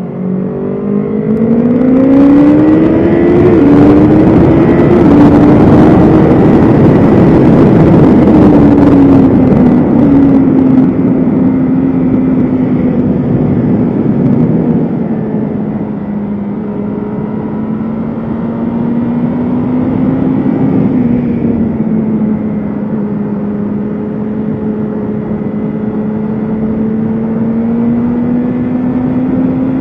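BMW S1000RR inline-four sport bike engine accelerating hard, its pitch climbing with a gear change a few seconds in, under heavy wind rush. It then runs at steadier, lower revs through a long stretch before the pitch climbs again near the end.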